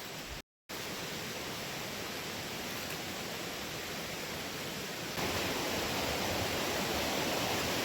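Steady rush of river water, cut off completely for a moment about half a second in, and louder from about five seconds in.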